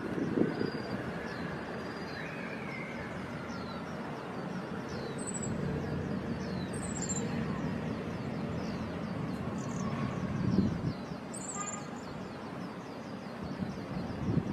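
Small birds calling: a quick run of short, falling high notes, with a few sharper, higher calls about five, seven and eleven seconds in, over a steady low rumble.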